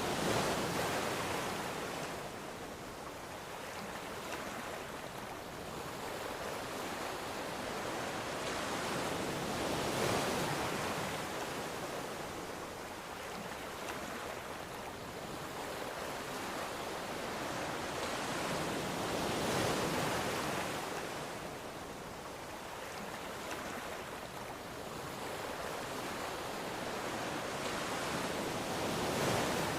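Ocean waves breaking and washing up the shore, each swell rising and falling away about every ten seconds, three or four in all.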